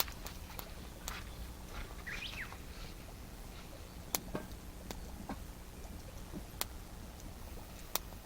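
Campfire crackling with sharp, scattered pops, and a bird chirping briefly about two seconds in.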